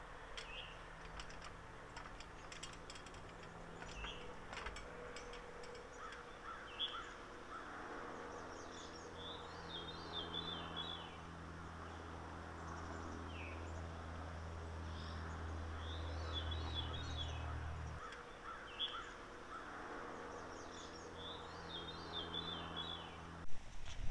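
A songbird repeating a short phrase of quick descending high notes about every six seconds, with scattered single chirps, over a faint low steady hum.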